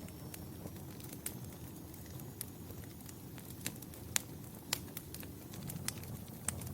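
Wood fire crackling: a steady low rumble of flame with irregular sharp pops and snaps, the loudest just after four seconds in.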